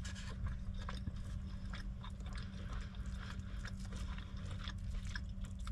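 A person chewing a mouthful of steak, peppers and rice: a run of small, irregular mouth clicks, with a spoon scooping in the bowl about four seconds in.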